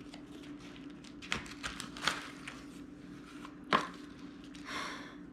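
A knife knocking and tapping a few times against a cutting board while cutting a block of cream cheese, the sharpest knock a little under four seconds in.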